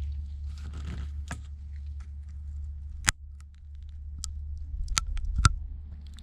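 Small hand tools clicking and tapping against the tablet's parts during a screen repair, with a few sharp clicks in the second half, over a steady low hum.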